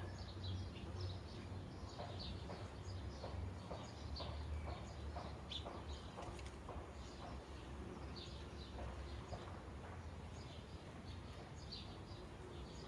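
Sparrows chirping, many short chirps a second in an irregular chatter, over a steady low rumble.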